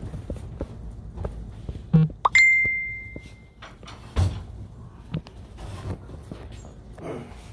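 Scattered light knocks and clicks. About two seconds in, a sharp strike with a quick upward glide becomes a single high ringing tone that fades away over about a second, and a low knock follows a couple of seconds later.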